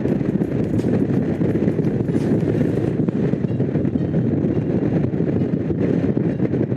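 Honda CX500's liquid-cooled V-twin engine running steadily while the motorcycle is ridden, with wind rushing over the microphone.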